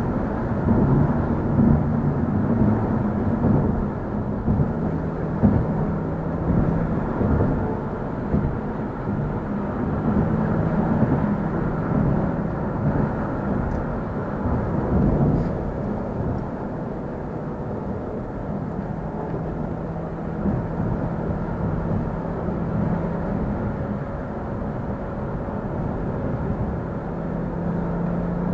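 Car engine from a BMW N55 turbocharged inline-six, running under way with road rumble. The engine note shifts with throttle in the first part, then holds a steady cruising pitch for long stretches.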